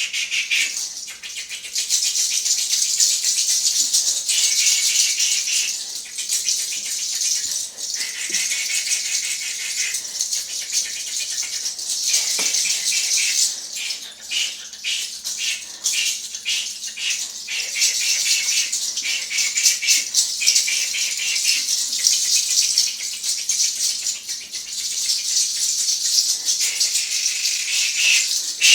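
A rattle shaken in rhythmic bursts with short pauses, giving a dry, hissy shaking sound.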